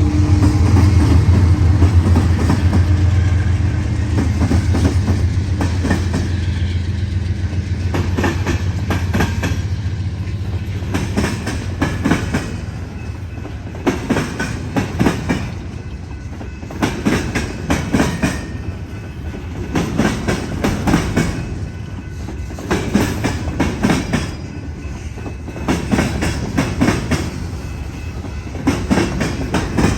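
Freight train's wheels clattering over a rail diamond crossing, coming in quick groups of clicks every second or two as the cars roll across. In the first few seconds a low drone from the diesel locomotives fades away.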